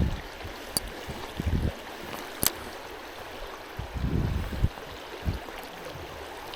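Flowing stream water, a steady rushing hiss, with a few low rumbles on the microphone and two short sharp clicks, about a second and two and a half seconds in.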